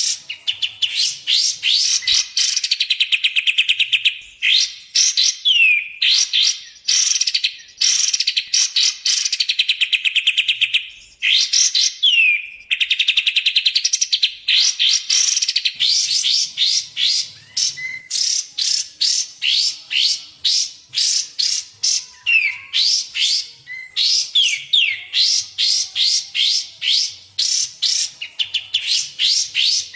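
Recorded songbird tutor audio of kapas tembak and cucak jenggot. Rapid, loud chattering trills of quick descending notes repeat in phrases of a second or two with short breaks, and a few longer downward-sliding whistles are mixed in.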